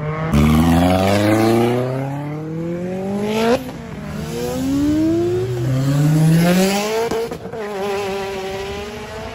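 Performance car engine accelerating hard through the gears. The revs climb steeply and drop back sharply at each upshift, the clearest about three and a half seconds in and near seven seconds, then settle at a steadier pitch.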